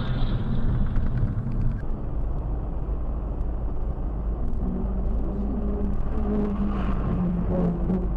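Dashcam recording of a vehicle driving: a steady rumble of engine and road noise that changes character about two seconds in. In the second half a low engine hum shifts up and down in pitch.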